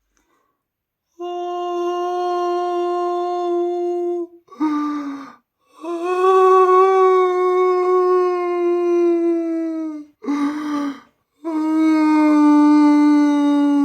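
A voice howling in long, held wails, three of them, each about three seconds at a steady pitch that sags slightly at the end. The wails are broken by short, rough, breathy gasps, giving an eerie, ghost-like keening.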